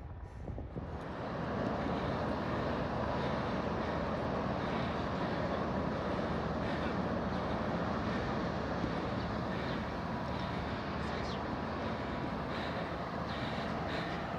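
Steady mechanical rumble with a faint hum, building up about a second in and then holding steady.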